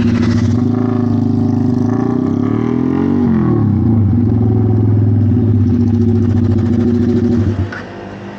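A loud engine running steadily, its pitch sliding about two to three seconds in, then cutting off sharply near the end.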